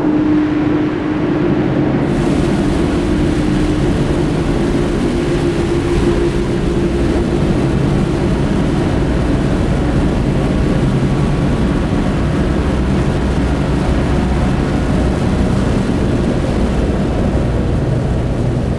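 Giant spring bolted to a wooden beam, heard through a contact mic: a loud, dense rumbling drone, with a steady low hum in the first few seconds that fades away.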